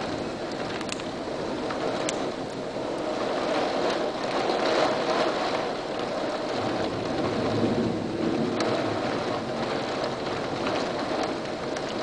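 Strong storm wind of 60 mph and more, a dense rushing noise that swells in gusts and eases again, with a few sharp ticks.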